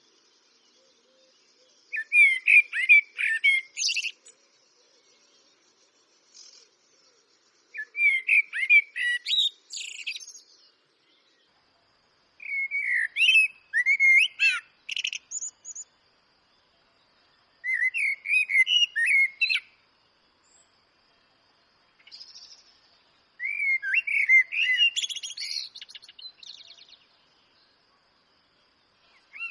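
Eurasian blackbird singing: five separate phrases of fluting, warbled notes, each ending in higher twittering, with pauses of a few seconds between them.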